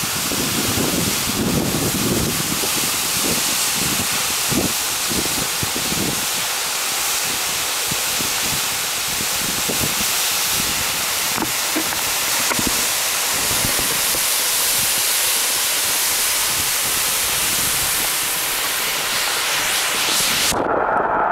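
Waterfall crashing down, a loud steady rush of water with some low buffeting in the first few seconds. Near the end the sound turns abruptly muffled, the hiss dropping away.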